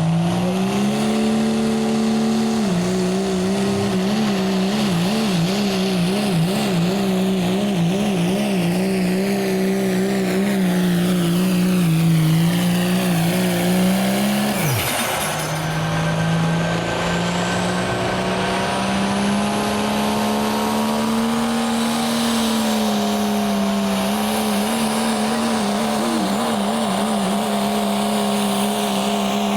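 Turbocharged diesel pickup engine running at high revs under full load as it pulls the sled. The pitch wavers for several seconds, dips sharply about halfway through, then climbs back and holds steady.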